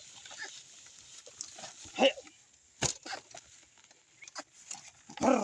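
Two short farm-animal calls, one about two seconds in and a louder one near the end, with a sharp crack between them.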